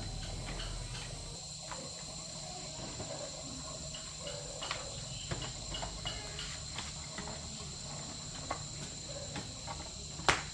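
Crickets trilling steadily in the background, with scattered light clicks and taps and one sharper click near the end.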